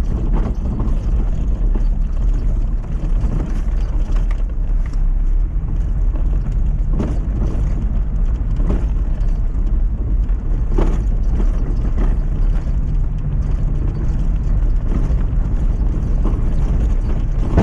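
Lifted Mazda MX-5 driving along a rough, unsurfaced lane: a steady low rumble of engine and road noise, broken by several sharp knocks as the car jolts over the rough ground.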